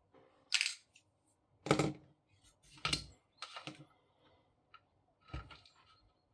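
Short clicks and clatters of small hard plastic and metal parts being handled, about five of them spread over a few seconds, the loudest about two seconds in.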